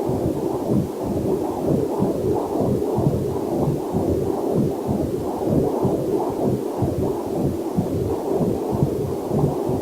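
Heartbeat picked up by a fetal Doppler monitor: a fast, steady run of whooshing pulses.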